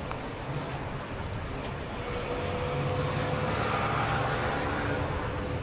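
A motor vehicle passing: its engine hum and whine grow louder over a couple of seconds, peak, then ease off, over steady outdoor background noise.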